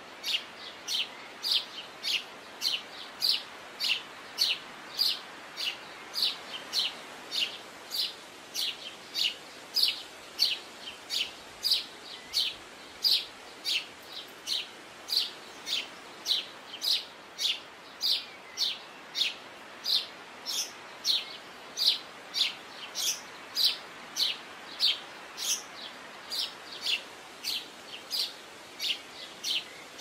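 A songbird calling one short, high chirp over and over at a very even pace, about twice a second, over a faint steady background noise.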